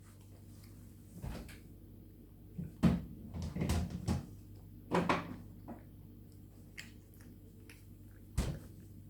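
A cat eating from its food bowl, with a few knocks and short clatters of the bowl: the loudest about three and five seconds in and a last one near the end. A steady low hum runs underneath.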